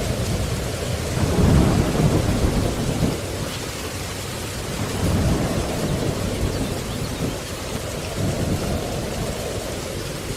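Steady rain with thunder rumbling over it, the loudest roll about a second and a half in and weaker rolls around five and eight seconds in.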